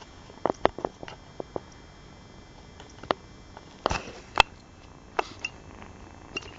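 Persian kittens drinking milk: irregular short, wet smacking clicks, a quick cluster about half a second in and single ones around three, four and five seconds in.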